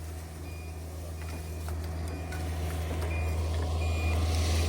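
A vehicle's reversing alarm beeping at a steady interval, faint at first and growing louder near the end, over the low steady hum of an idling engine.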